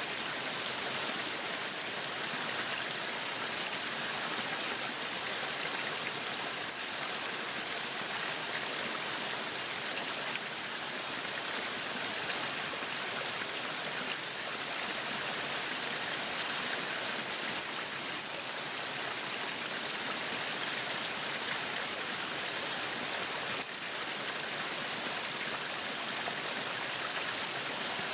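Meat sizzling on a yakiniku grill: a steady, even sizzle.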